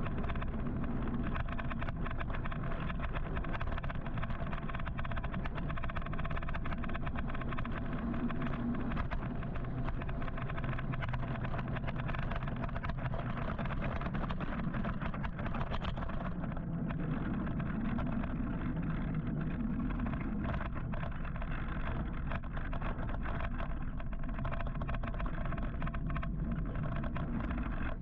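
Steady road and traffic noise with wind rush, heard while riding an electric motorcycle in city traffic, with a faint steady whine.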